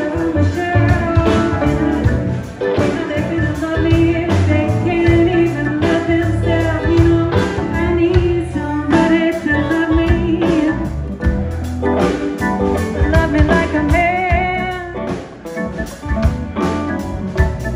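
Live blues band playing, with drums, bass, electric guitar and keys, and a singer's voice.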